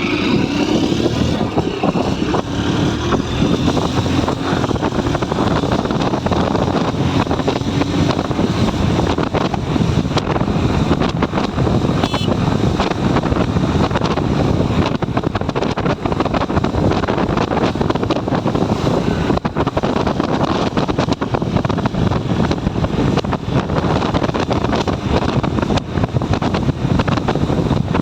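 Motorcycle engine running under way while riding, mixed with wind rushing over a helmet-mounted microphone. Both keep up a steady, loud level.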